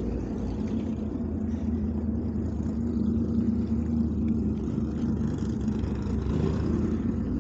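Race car engine idling steadily.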